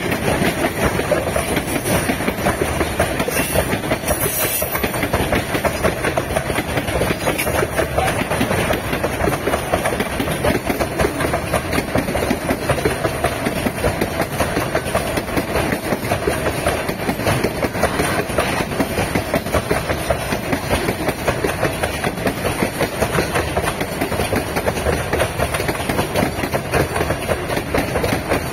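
Loaded freight train wagons rolling past at close range: a steady rumble and clatter of steel wheels on the rails.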